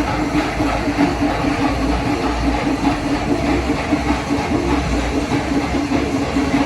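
Loud, dense festival drumming from a temple percussion ensemble, a fast unbroken rhythm with a held, pulsing pitch running through it.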